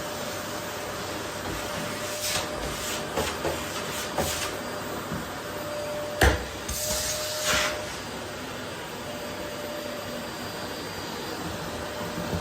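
Vacuum cleaner running steadily with a faint steady whine. Several brief surges of sucking noise come as the nozzle moves, and there is one sharp knock about six seconds in.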